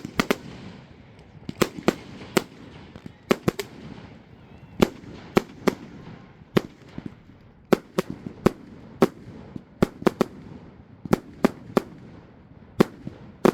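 Fireworks display: a run of sharp bangs from bursting aerial shells, coming at irregular intervals of roughly one to three a second over a faint background crackle.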